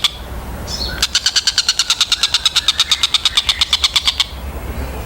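Tengkek buto (collared kingfisher) giving a rapid run of sharp, harsh repeated notes, about ten a second. The run starts about a second in and stops a little after four seconds, with softer calls before and after it.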